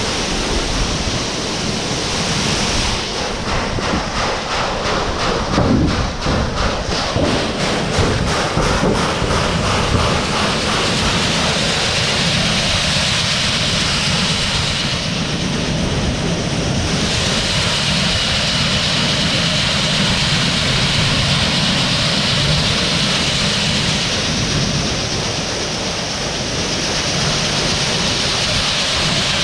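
Heavy farm machinery running steadily: a loud, even mechanical rush, with a fast rhythmic clatter for a few seconds starting about three seconds in.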